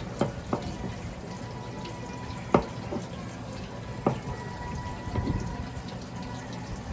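Steady running water with a few sharp knocks, the loudest about two and a half seconds in.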